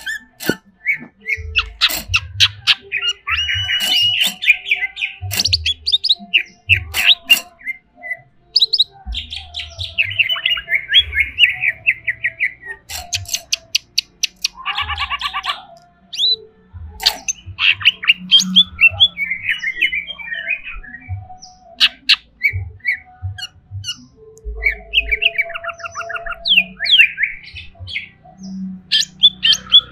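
Cucak ijo (green leafbird) singing in an agitated burst: rapid chattering trills, harsh squawks and sharp clicks, run together with only short breaks. Dull low knocks sound now and then through the song.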